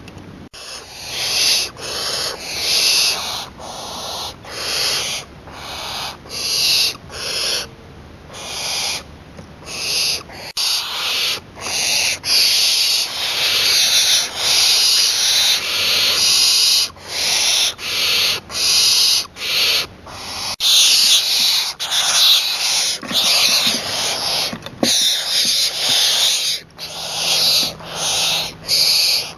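Young barn owl giving harsh hissing calls again and again, each a rasping burst from under a second to about two seconds long, coming roughly once a second.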